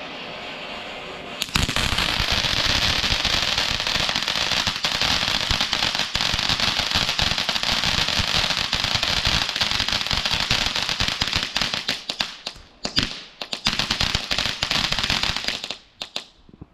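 A category F2 firework cake (battery) firing. A short steady hiss gives way about a second and a half in to a long dense run of rapid bangs and crackles. This thins to a few last bursts and stops near the end.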